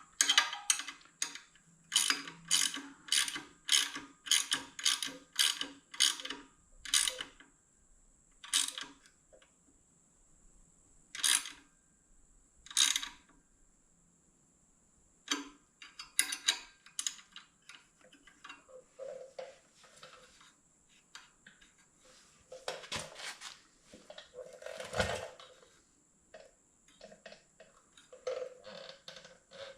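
Hand tool working the fasteners of a motorcycle brake pedal cover: a run of quick clicking strokes about two a second for the first seven seconds, then scattered clicks and small knocks.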